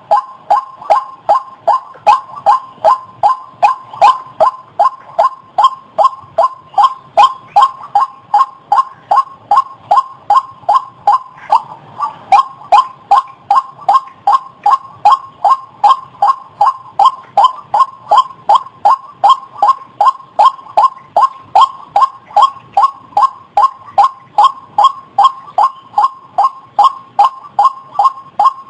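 White-breasted waterhen calling, a loud, evenly repeated croaking call at about two and a half notes a second with no pause.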